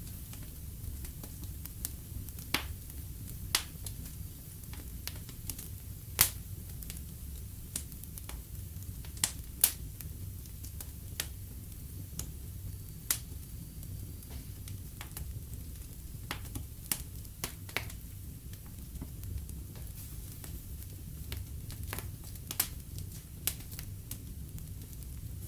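Wood fire crackling in a fireplace: irregular sharp pops and snaps over a steady low rumble, with a couple of louder pops about six and ten seconds in.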